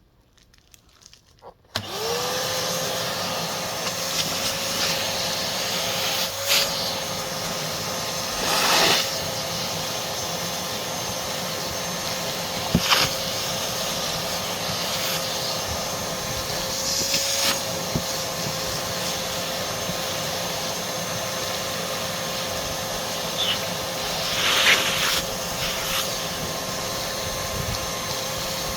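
An electric fan motor, of the kind in a heat gun or vacuum, switches on about two seconds in, spins up and runs steadily with a hum and a high whine. A few short knocks and brushing sounds come over it.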